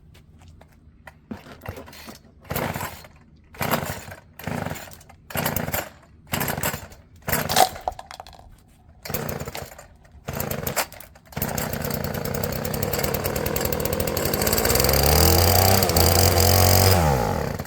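Stihl FS36 two-stroke string trimmer being pull-started: about nine tugs on the recoil starter cord. The engine then catches and runs for about six seconds, louder and faster toward the end, and stops abruptly.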